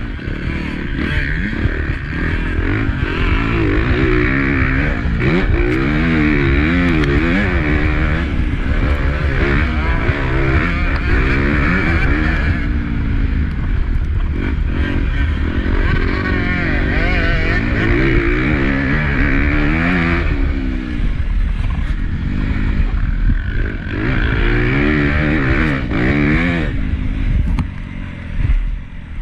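Honda CRF250 motocross bike's single-cylinder four-stroke engine, heard close on-board, revving hard and falling back over and over as the rider works the throttle and gears. The engine eases off briefly near the end.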